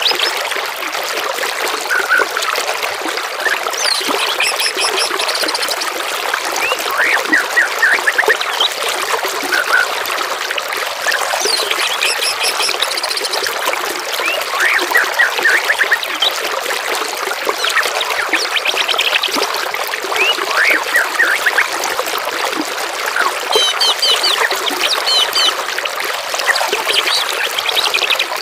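Steady trickling running water with songbirds repeatedly chirping and trilling over it, several different short call phrases in turn.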